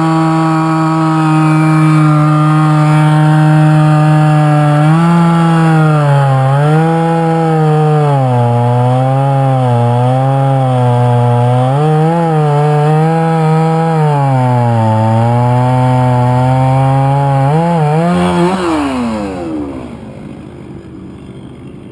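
Two-stroke chainsaw running at full throttle. From about five seconds in its pitch repeatedly sags and recovers as the chain bites into the wood of a downed tree. Near the end the throttle is let go and the engine winds down.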